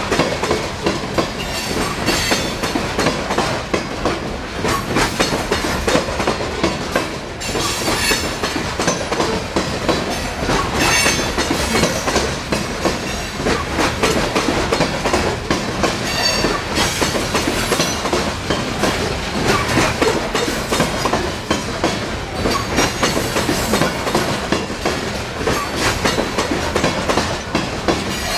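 Coal hopper cars of a freight train rolling past: a steady rumble with the clickety-clack of wheels over the rail joints, and a few short high-pitched squeals from the wheels.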